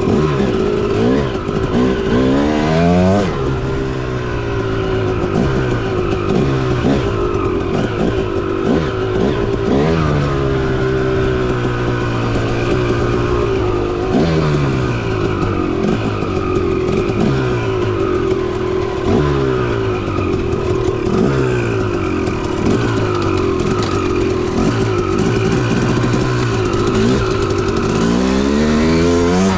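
Dirt bike engine under way, revving up and dropping back again and again as the throttle is worked and gears change, with a steady tone holding underneath. Near the end the revs climb once more.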